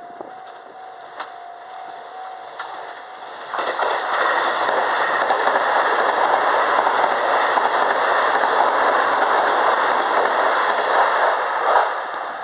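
Level crossing alarm ringing as a faint repeating tone, then about three and a half seconds in a train runs through the crossing: a loud, steady rush of wheels on rail lasting about eight seconds, with a sharp knock near the end, fading as the last car clears.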